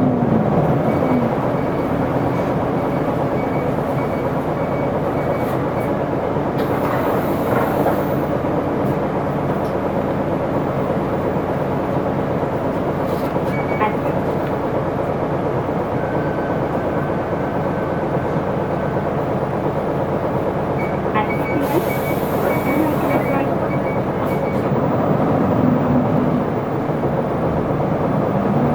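Isuzu Erga city bus's diesel engine running steadily at low revs, heard from inside the bus as it works through a stop. Air hisses briefly about a quarter of the way in and again about three quarters in.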